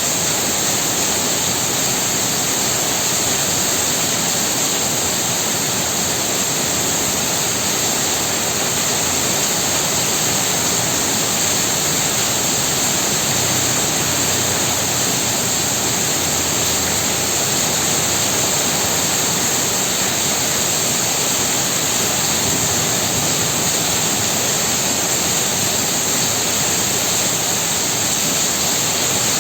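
Heavy rain falling steadily, an even dense hiss with no individual drops or gusts standing out.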